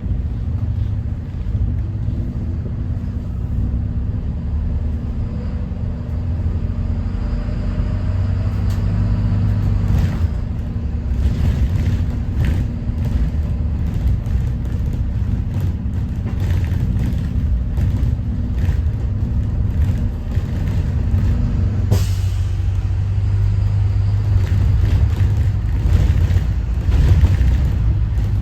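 2021 Thomas Saf-T-Liner C2 school bus with a Detroit diesel engine under way: a steady low engine and road rumble with light rattles, and one sharp knock about 22 seconds in.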